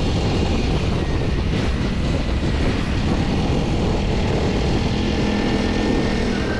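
Honda Rebel 300 motorcycle under way, a steady engine drone buried in heavy wind rumble on the microphone.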